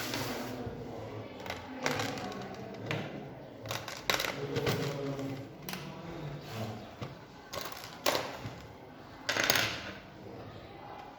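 Scattered clicks and clatter of small hard parts being handled, with a longer rattle about nine seconds in, the loudest.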